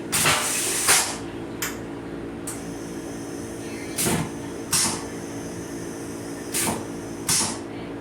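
Steady mechanical hum of a Metro-North Comet IV coach, broken by short hissing bursts: one lasting nearly a second at the start, then two pairs later on, each burst in a pair about 0.7 s apart, with a couple of faint clicks in between.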